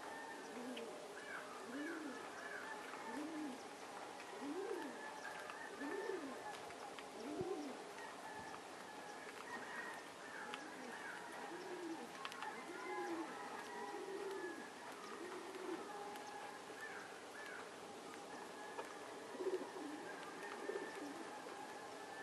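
Bird cooing: a long run of low, soft notes that each rise and fall, one every second or so, pausing briefly a few times, with fainter, higher bird notes now and then.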